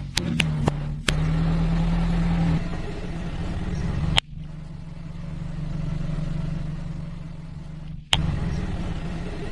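A car engine running steadily at low speed, with a few sharp cracks in the first second or so as objects are crushed under the tyre. The sound breaks off abruptly twice, about four and eight seconds in.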